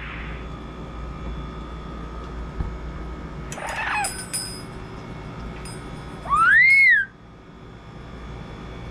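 Double yellow-headed Amazon parrot giving a short call about four seconds in, then a loud whistle that rises and falls, lasting under a second, about six seconds in.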